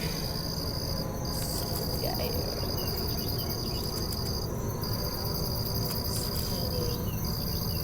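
Crickets trilling in a steady, high, continuous chorus, broken by a few brief pauses.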